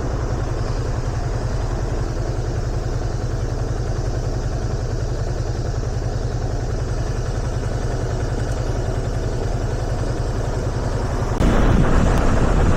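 Yamaha FZS25 motorcycle's single-cylinder engine running steadily at a low, even note. About 11 seconds in, a sudden louder rush of wind noise on the microphone comes in.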